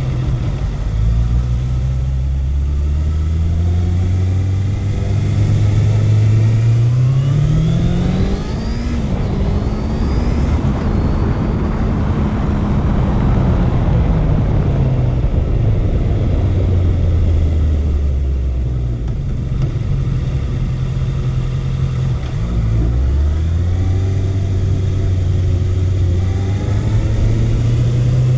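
Honda CB650F's inline four-cylinder engine heard while riding: it pulls up through the revs for the first several seconds, then a broad rush of noise swells and fades as it runs at speed, it drops to a lower steady pitch, and near the end it climbs in revs again.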